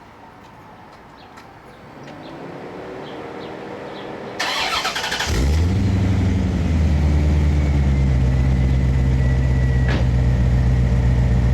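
1990 C4 Corvette V8 with a Borla 2.5-inch cat-delete exhaust starting up. A rising whine comes first, then a second of starter cranking; the engine catches about halfway in, climbs, and settles into a loud, steady idle through the aftermarket exhaust.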